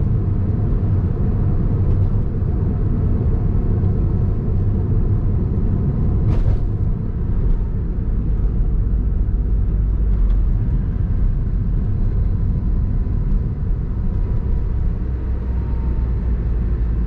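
Honda S660's 658 cc turbocharged three-cylinder engine and road noise while driving: a steady low rumble.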